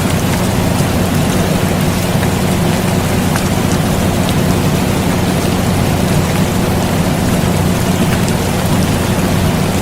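Steady rain falling, an even hiss with scattered drop ticks, over the continuous low hum of a running air conditioner.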